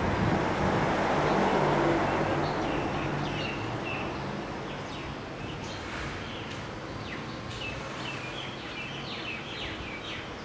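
Wind rushing over the microphone, loudest at first and dying away over the first few seconds, then small birds chirping with many short, high calls, some sweeping downward.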